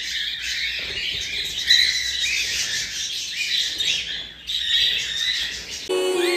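A flock of cockatiels chirping and squawking together in a dense, overlapping chatter. Music with a sliding melody comes in near the end.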